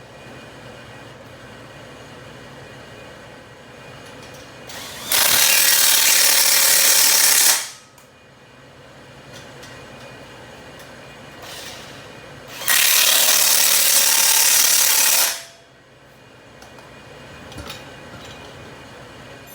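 Power tool driving the Loctited mounting bolts home, run in two bursts of about two and a half seconds each.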